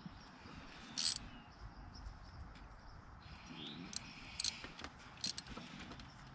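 A few scattered sharp metallic clicks and clinks of hand tools during spark plug work, the loudest about a second in and others about four to five seconds in, with a brief hiss between them.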